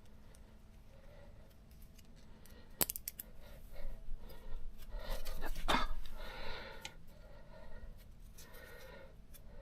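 A sharp metallic click about three seconds in, then a few seconds of rattling and scraping as hand tools and brake parts are handled.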